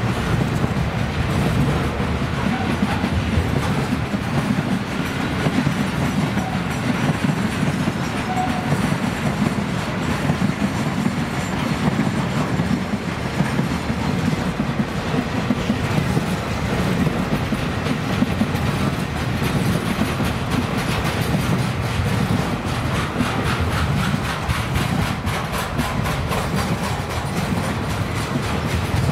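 Container wagons of a long broad-gauge freight train rolling past at speed: a steady rumble of steel wheels on rail, with repeated clicks from the wheels over the track that come through more plainly in the second half.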